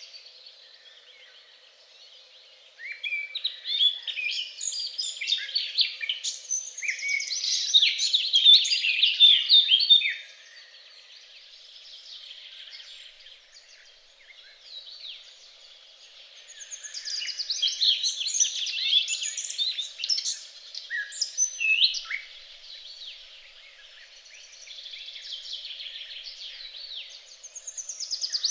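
Songbirds singing and chirping, in busy louder bouts of song with quieter stretches of song between.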